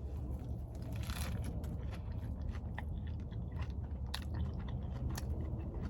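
A person chewing a mouthful of a big steak burger with lettuce, tomato and onions: scattered crunches and wet clicks, with a noisier crunch about a second in, over a steady low hum.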